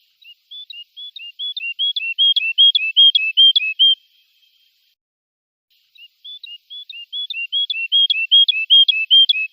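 European goldfinch singing a rapidly repeated two-note phrase, each low note followed by a higher flicked note, growing louder over about three and a half seconds. The phrase breaks off, and after a short pause the same sequence repeats.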